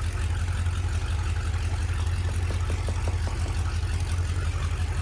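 1969 Chrysler Newport's 383 V8 idling steadily with an even, rapid low pulse. A few faint light clicks come about halfway through.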